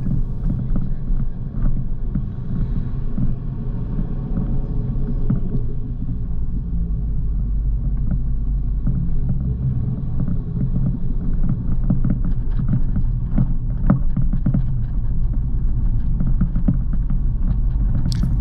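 A C6 Corvette's V8 engine running at low town speed with the top down, a steady low-pitched drone with small ticks and knocks from the road.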